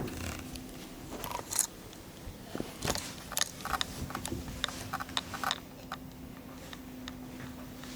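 Kittens moving and playing close to the microphone: scattered small clicks, taps and scratchy rustles, thickest in the middle few seconds, over a steady low hum.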